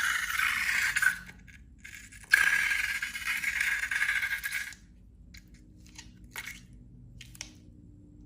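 Small loose pieces pouring or rattling into a container: a steady rattly hiss that stops about a second in, starts again about two seconds in and stops near five seconds, followed by a few light clicks.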